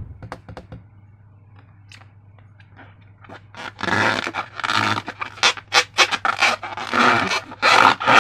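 Slime being squeezed and squished by hand: a few faint clicks, then from about four seconds in a run of loud, irregular wet squelches.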